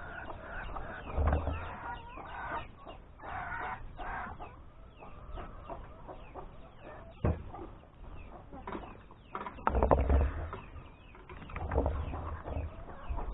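Chickens clucking, many short calls overlapping, with a few dull thumps, the loudest about ten seconds in, and one sharp click around the middle.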